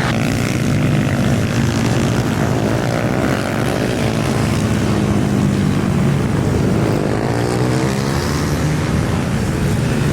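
Several small pit bike engines revving hard on track, their overlapping whines rising and falling in pitch as the bikes accelerate, shift and pass.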